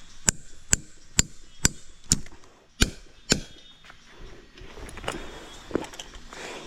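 Chopping: seven sharp strikes, about two a second, then a few lighter knocks.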